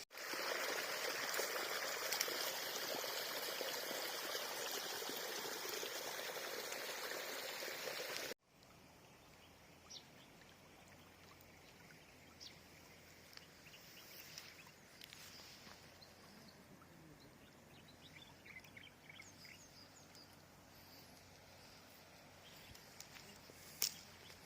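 Mountain river water rushing, a steady loud flow for about eight seconds, then a sudden cut to quiet outdoor ambience with scattered faint chirps and a sharp click near the end.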